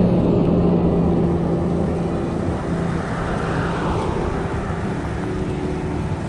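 Heavy wind buffeting the microphone of a moving e-bike in gusty weather, over road traffic noise, with a steady low hum and a vehicle passing about three seconds in.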